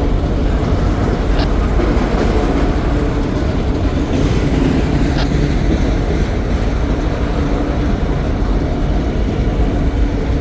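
Freight cars of a slow CSX manifest train rolling past: a steady, loud rumble of steel wheels on the rails, with two brief sharp metallic clanks or squeals.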